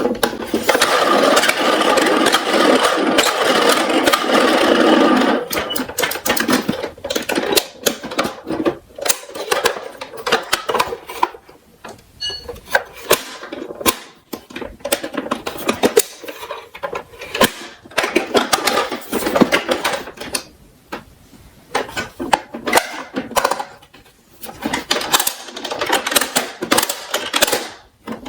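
Plastic toy garbage trucks rolling and rattling down a slope, a steady rattle for about the first five seconds. It breaks into scattered clicks, knocks and clatter as the toys tumble and hit one another and the garbage.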